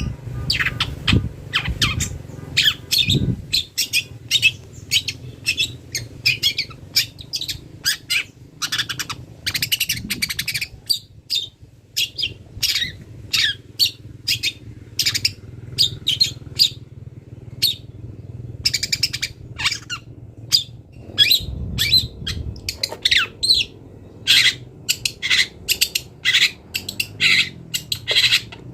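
Long-tailed shrike (cendet) singing a fast, chattering string of short sharp notes, its song filled with mimicked calls of other birds, broken by a couple of brief pauses.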